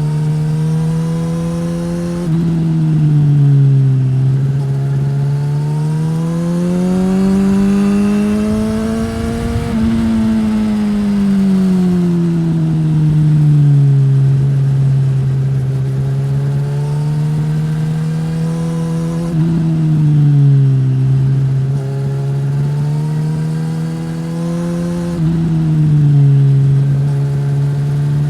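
Suzuki GSX-S1000's inline-four engine through a Yoshimura R-11 slip-on exhaust, running under way. Its pitch climbs to a peak about ten seconds in and falls away again, with sudden steps in pitch about two seconds in, again near twenty seconds and near twenty-five seconds.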